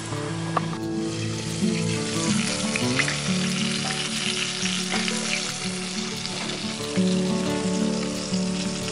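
Flour-dredged squirrel pieces frying in hot oil in a cast iron pan: a steady crackling sizzle.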